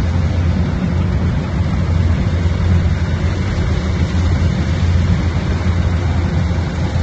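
Heavy machine's engine running steadily at one even pitch, with a strong deep hum and a noisy mechanical rush over it.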